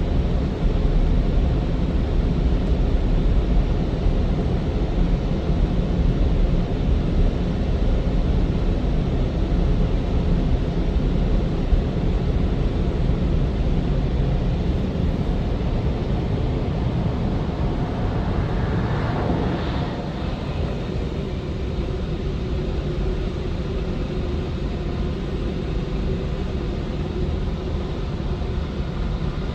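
Steady rumbling noise of automatic car wash machinery, with a brief rising rush about two-thirds of the way through, after which it settles a little quieter.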